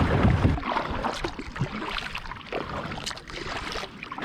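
Kayak paddling through river water: scattered splashes and drips from paddle strokes over the water's rush. Wind rumbles on the microphone for the first half second.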